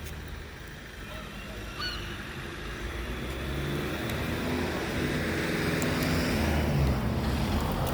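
A motor engine running with a steady low hum that grows louder from about three seconds in, as if it is coming closer.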